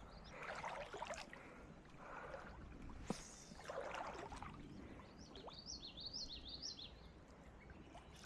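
Faint creek-side ambience: a few soft water and handling noises in the first half, then a bird singing a short warbling phrase about five seconds in.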